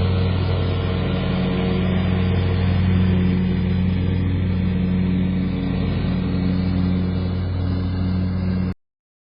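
Vehicle engine running at a steady speed, an even low-pitched drone that cuts off abruptly near the end.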